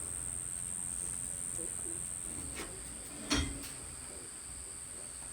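Parts being handled during engine reassembly: a light click, then a single sharp knock about three seconds in, over a steady high-pitched background tone.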